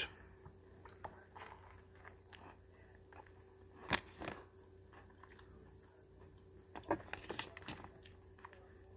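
A person chewing a mouthful of spicy crispy chicken sandwich, with soft mouth clicks and light crunches. There is one sharp click about four seconds in and a little cluster of them around seven seconds.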